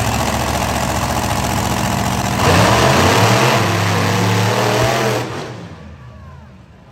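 Monster truck engine running loud, then revving harder about two and a half seconds in, before fading away after about five seconds.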